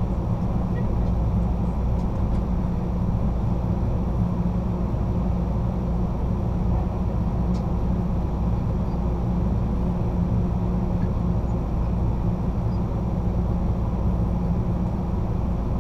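Amtrak California Zephyr passenger car rolling along the rails: a steady, even low rumble of wheels and car body, heard from inside the rear of the train.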